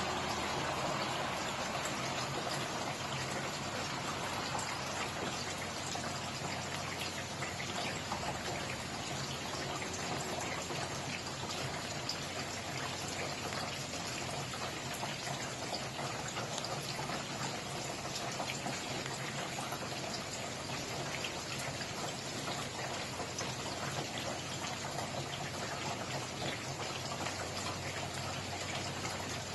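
Steady rain falling, with many separate drop hits ticking through an even hiss.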